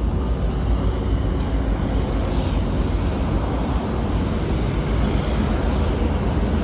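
Class 08 diesel shunter's engine running with a steady low rumble while it works in the yard.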